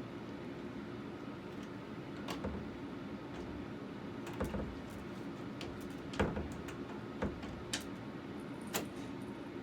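Steady room hum with a handful of light knocks and clicks at irregular moments, the sharpest about six seconds in.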